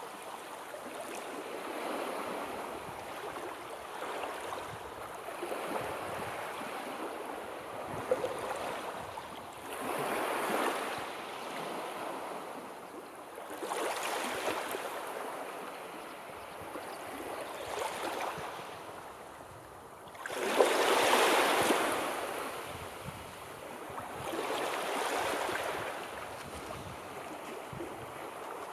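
Sea waves washing in, a swell of surf every three to four seconds, the biggest one about two-thirds of the way through.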